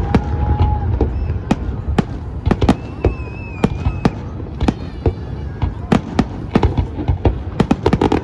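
Aerial fireworks bursting in quick, irregular bangs, several a second, over a continuous low rumble of echoing explosions. A brief wavering whistle comes about three seconds in.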